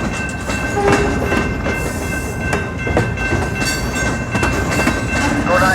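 Freight cars of a passing freight train rolling by at close range, with wheels clattering irregularly over the rail joints and a steady, high-pitched ringing tone running through the rumble.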